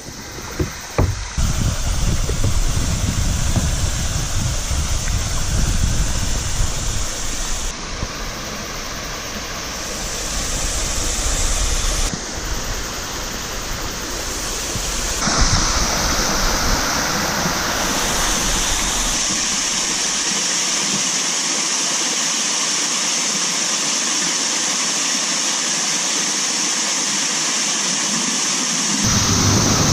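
Small waterfall rushing steadily, a continuous hiss of falling water that grows fuller about halfway through. A low rumble sits under it for most of the first two-thirds, then drops away.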